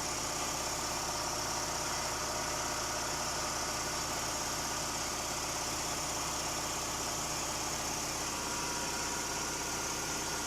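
Chevrolet Avalanche V8 idling steadily, with an even hum and a steady high hiss over it.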